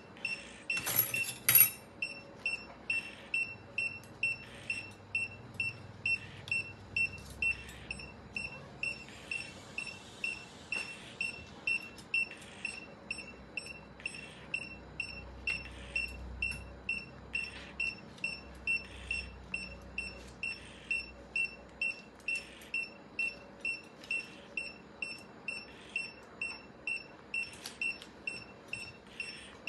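Patient monitor beeping in time with the anaesthetised cat's pulse, short high beeps at an even rate of about two a second. A sharp clink, as of a metal instrument, comes about a second in.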